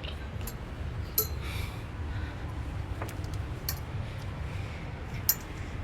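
Steady low rumble with about five light, sharp clicks and clinks scattered through it.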